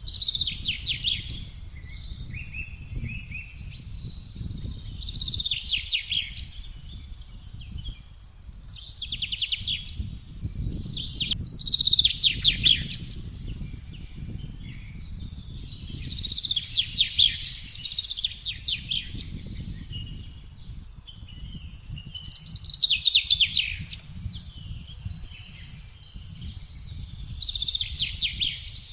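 A songbird singing short, rapid trilled phrases, one every few seconds, over a steady low rumble of wind.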